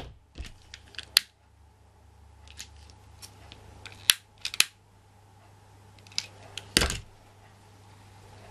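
Scissors cutting a length of fabric: a scattering of short, sharp snips and clicks, bunched together about four seconds in and again near seven seconds, over a faint low hum.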